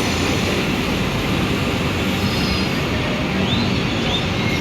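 Vande Bharat Express electric train running on the rails as it pulls out of a station: a steady rumble of wheels and cars, with a couple of short, faint rising wheel squeals near the end.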